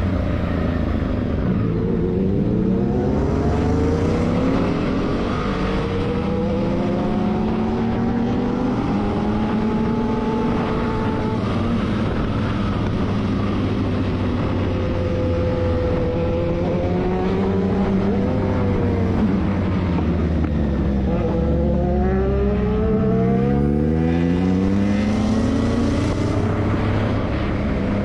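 Motorcycle engine running under way, its pitch rising and falling as it speeds up and slows down, with a deep drop and climb in revs near the end.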